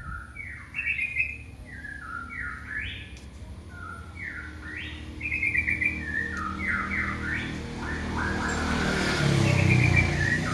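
A kitten mewing over and over, calling for its mother: a string of short high-pitched calls, each sliding up or down in pitch. Near the end a low rumble swells up under the calls.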